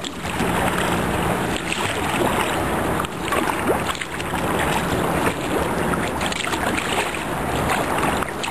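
Turbulent river water rushing and splashing around a sea kayak and its paddle, with many irregular splashes.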